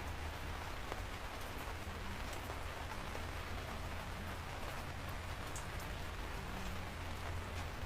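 Steady rain falling, with scattered individual drops ticking on a surface and a low rumble beneath.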